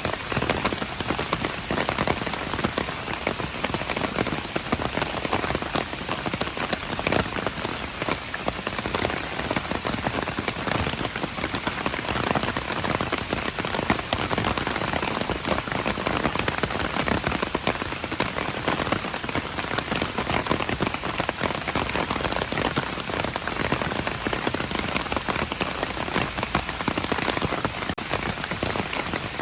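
Steady rain falling on hard surfaces, a dense, even patter of many drops.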